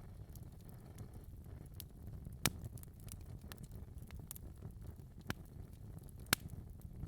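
Fireplace fire crackling: a steady low rumble of flames with scattered sharp pops and ticks, the loudest pops about two and a half, five and six seconds in.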